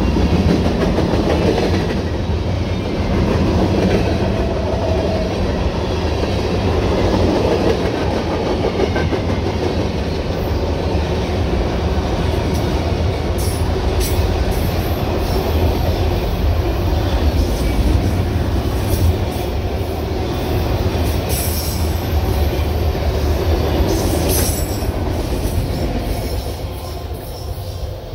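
Freight cars of a manifest train rolling past: a steady rumble of steel wheels on rail, with sharp high squeals and clicks from the wheels in the middle stretch. The sound grows quieter near the end.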